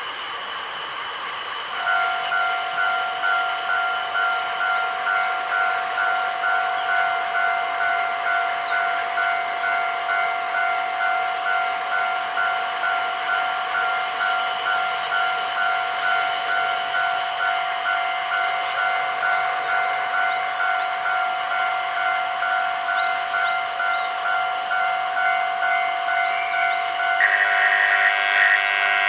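Railway level-crossing warning bell ringing steadily, about two strokes a second, starting about two seconds in. Near the end a louder, several-toned horn joins in, typical of an approaching train.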